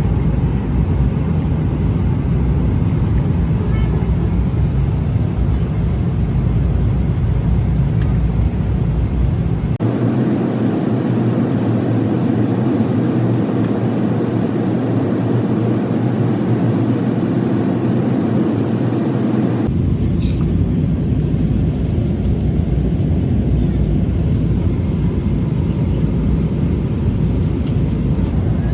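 Boeing 777-300ER airliner cabin noise: a steady, loud rumble and rush of its GE90 engines and airflow. The sound changes abruptly twice, about ten seconds in and again near twenty seconds. In the middle stretch the deep rumble drops away and the hiss is brighter.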